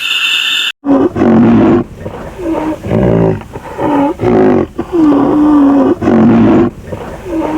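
A big cat roaring and growling in a run of about six roars of varying length, each with a wavering pitch. It follows the loud tail of a high call that cuts off abruptly just under a second in.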